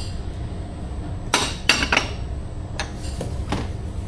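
Dishes and utensils clinking: a cluster of sharp clinks about a second and a half in, then two lighter ones, over a steady low hum.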